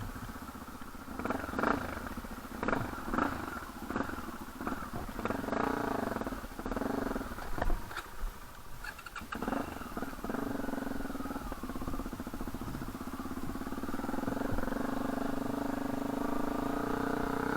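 Dirt bike engine revving in uneven bursts for the first several seconds, then running at a steady speed from about halfway through.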